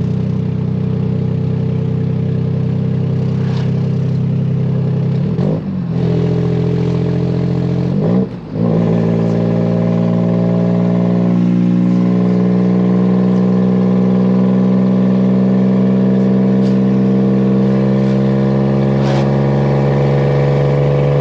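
Nissan Maxima's swapped-in VQ35HR V6 pulling through a six-speed manual: the engine note breaks and dips briefly a little past five seconds and again around eight seconds as gears are shifted, then rises slowly and steadily as the car accelerates in the next gear.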